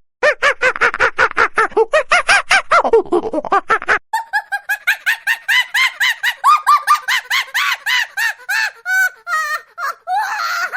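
Monkey calling in rapid series of short, arched screeching calls, about five a second. After a brief break about four seconds in, a higher-pitched run of calls follows.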